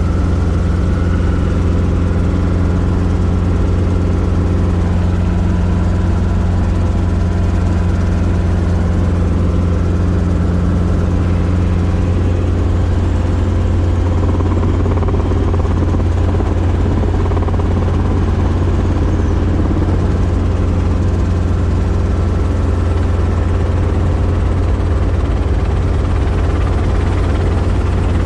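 Robinson R22 helicopter's piston engine and rotor running, a loud, steady low drone.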